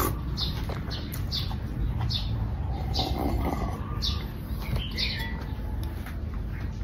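Close-miked eating sounds: chewing and mouth clicks coming at a regular pace, with a sip of clear soup from a glass bowl around the middle.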